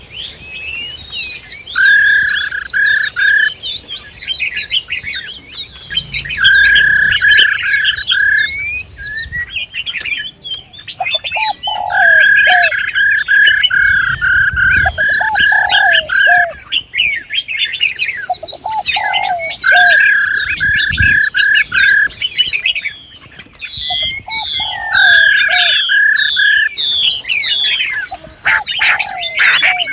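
Several songbirds calling together: a dense stream of fast, high chirps and twitters, a steady whistled note repeated in bouts of a few seconds, and lower hooked notes in between. These are recorded female cage-bird calls of the kind played to excite male birds.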